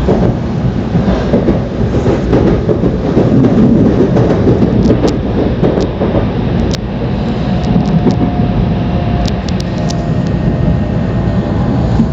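Tokaido Shinkansen train running: a steady loud rumble of wheels and air, with a few sharp clicks in the middle and a faint high whine about eight seconds in.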